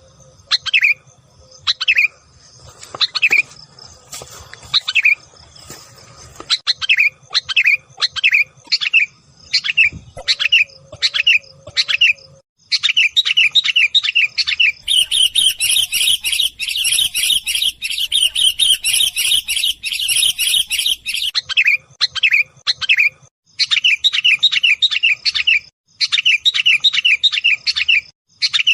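Kutilang bulbuls calling: sharp, falling chirps about one a second, then from about halfway a dense, rapid chattering of many calls. The chatter is loudest and shrillest a little past the middle, with short breaks near the end. This is a noisy bulbul call used as a trapping lure.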